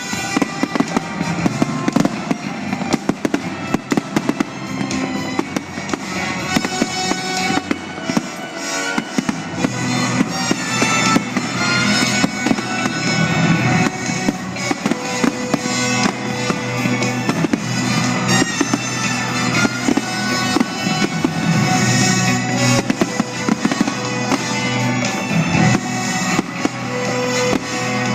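Fireworks banging and crackling in quick succession throughout, over loud music.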